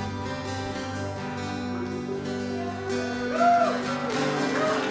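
Live worship band playing the instrumental close of a song: sustained chords with plucked guitar, a few brief melodic glides near the end.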